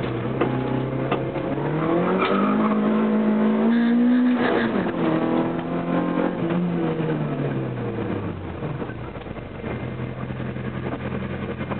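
Škoda Felicia 16V rally car's engine heard from inside the cabin: the revs climb for the first four seconds or so and then drop sharply. They rise briefly again, then fall away as the car slows and settle to a low steady run for the last few seconds.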